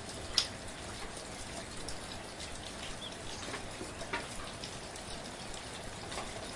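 Steady rain, an even hiss with individual drops pattering and ticking close by, one louder drop about half a second in.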